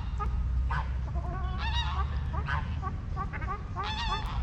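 Waterfowl calling repeatedly: many short overlapping calls, with louder drawn-out calls about a second and a half in and again near the end, over a steady low rumble.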